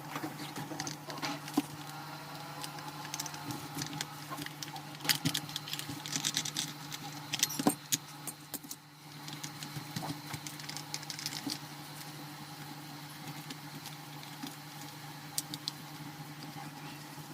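Light clicks and metallic rattles of small parts being handled, heard over a steady low hum.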